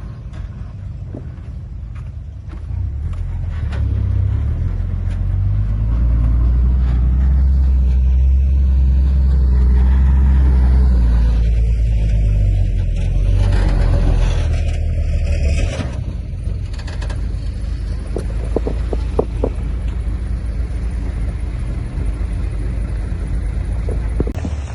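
Heavy diesel engine of earth-moving machinery running under load. It builds up a few seconds in, is loudest in the middle and eases off later. A few sharp knocks come near the end.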